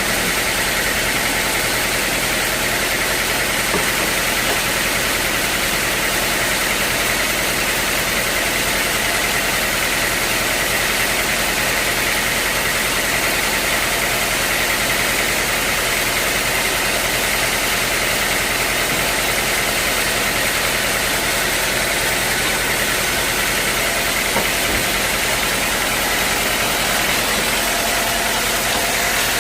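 Sawmill machinery running steadily, an even mechanical noise with a constant high whine.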